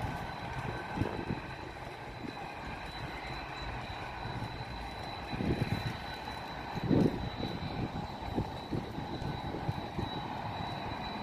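Airplane engines running steadily at an airport: a constant rushing hum with a thin high whine held throughout. There are two brief low thumps, about five and a half and seven seconds in.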